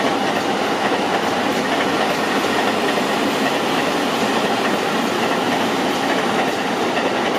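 Long passenger train passing through at speed: a steady rumble and rush of wheels on rails, with some light clatter over the rail joints.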